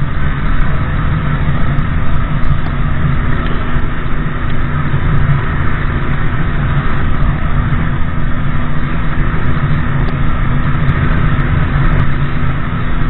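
Motorbike running along the road: a steady engine and road rumble with no change in pace.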